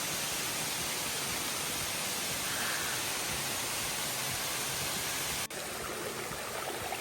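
Steady rush of falling water at Yellow Branch Falls, a waterfall. About five and a half seconds in there is a sudden break, after which the rush goes on slightly quieter.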